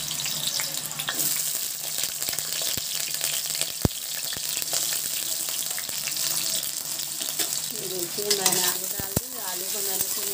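Cubed potatoes frying in hot oil in a kadai: a steady sizzle, with a few sharp clicks about four seconds in and twice near the end.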